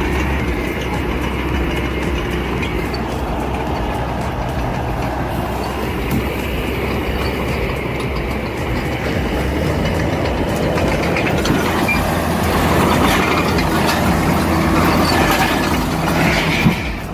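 Heavy diesel machinery running steadily with a deep rumble and rattle, a little louder over the last several seconds.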